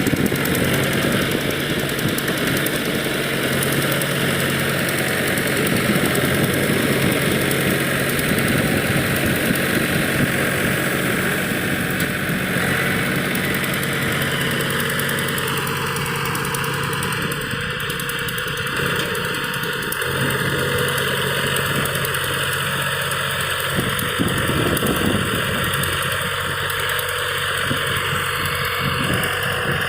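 Tractor diesel engine running steadily while working a rotavator through a field being tilled before paddy sowing, with a continuous churning mechanical noise over the engine hum.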